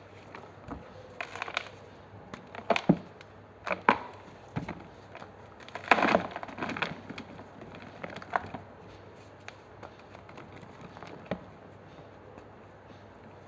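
Reformed blocks of red gym chalk crunching and crumbling as they are crushed: a string of separate crunches, the loudest about six seconds in, then only small crackles near the end.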